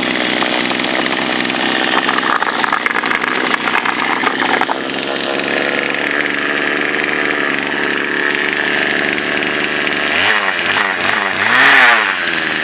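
Poulan Wild Thing chainsaw's small two-stroke engine running flat out at high revs with the throttle held wide open, which it needs to stay running. It is rough and uneven for the first few seconds, then settles to a steady scream, and near the end the revs swing down and back up a few times.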